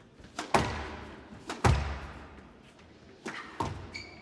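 Squash ball being struck by rackets and hitting the court walls during a rally, sharp knocks echoing in the court; the two loudest come about half a second and a second and a half in, with softer hits past three seconds and a short squeak near the end.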